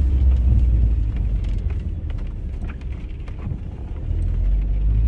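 Low, steady rumble heard inside a campervan, with faint light rattles. It eases about two seconds in and builds again near the end.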